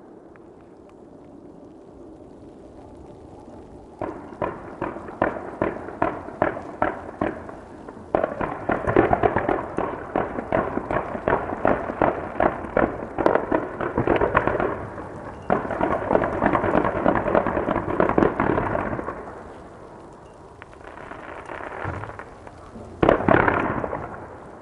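Fireworks crackling and popping. After a few quiet seconds a run of sharp pops starts, then dense crackling salvos fill the middle, and a loud burst comes near the end.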